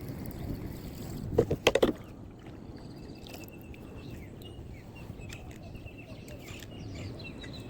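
Kayak on the water with a steady low rumble of water and movement, broken about a second and a half in by a quick run of four or five loud knocks. After that, faint high bird chirps repeat.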